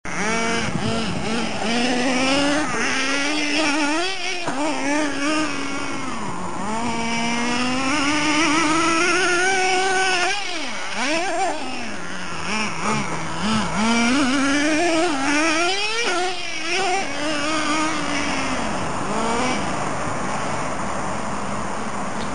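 Small fuel-powered engine of a 1:10 HSP Tyrannosaurus RC monster truck, revving up and down as it is driven. Its high pitch rises and falls repeatedly, with several sharp drops where the throttle is let off, and it settles to a steadier, lower running near the end.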